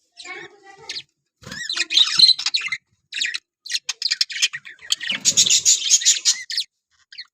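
Budgerigars chirping and warbling in quick, dense runs of high chirps, broken by short pauses about a second in and near the end.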